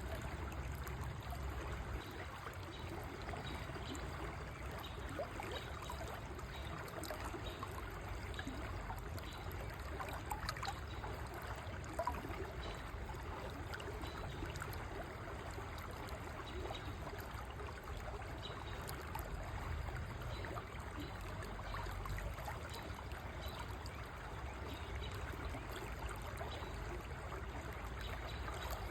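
River water flowing steadily, a continuous rush of water with many small trickles and splashes through it.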